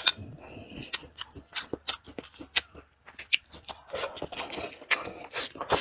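Close-miked eating sounds: a person chewing with the mouth, giving an irregular run of wet smacks and sharp clicks, several a second.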